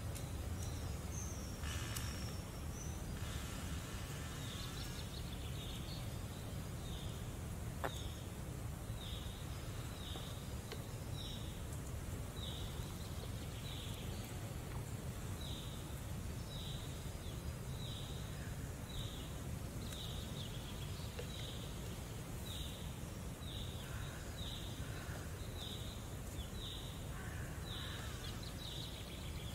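Woodland ambience: a steady low background rumble, with a bird repeating a short high call about once a second from a few seconds in.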